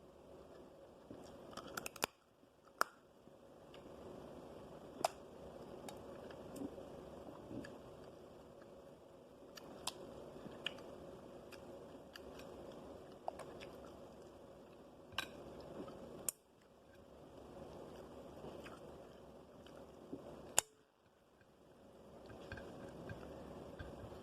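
Close-up eating sounds: faint chewing of crab and rice, with scattered sharp clicks and smacks.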